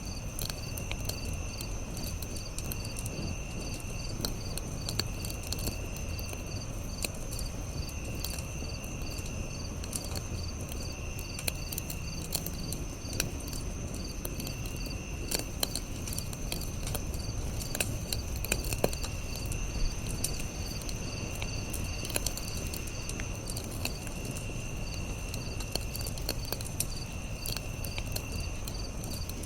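Campfire crackling with scattered sharp pops over a low rumble, under night insects: crickets trill steadily, one call pulses in a quick even rhythm, and another comes and goes in stretches of a second or so.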